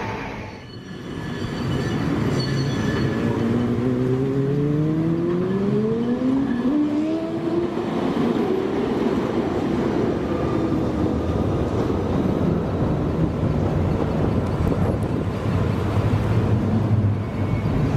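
Train at a station pulling away: a whine rising steadily in pitch for several seconds as it gathers speed, then a steady rumble of the train running.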